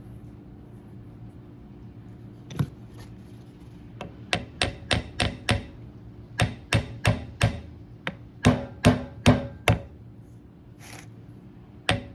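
Hammer striking a hydraulic cylinder seal to drive it into its seat in the end cap, in three quick runs of sharp metallic taps, about three a second, with short pauses between. One stray tap comes before the runs and another near the end.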